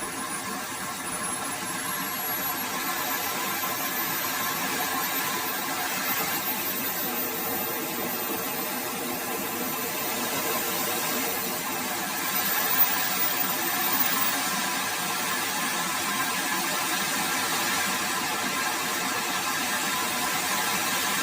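Small turbojet engine running steadily, with a thin, very high turbine whine that climbs over the first few seconds and then holds. Two brief louder pops come about thirteen and fourteen seconds in.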